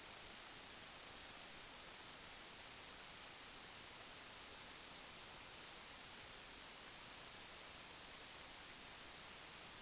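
A steady high-pitched electronic whine over constant hiss, with no other sound: noise on the audio of a sewer inspection camera's recording equipment.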